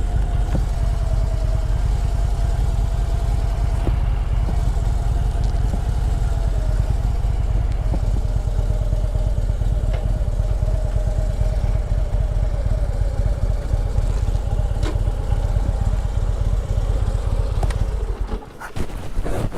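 Harley-Davidson motorcycle riding along, its engine running steadily under heavy low rumble with a steady mid-pitched tone over it. The low rumble drops away abruptly about a second before the end.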